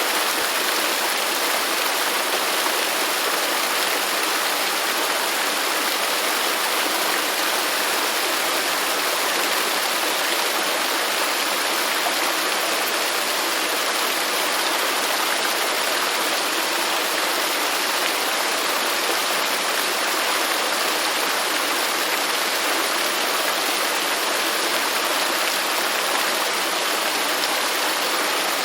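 Waterfall: water falling and rushing steadily, an even hiss with no breaks or changes.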